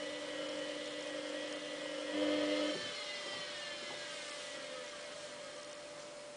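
Samsung WF8804RPA washing machine's drum motor whining steadily as it turns the drum to weigh the load, swelling briefly about two seconds in, then cutting out so the drum coasts down with a falling whine.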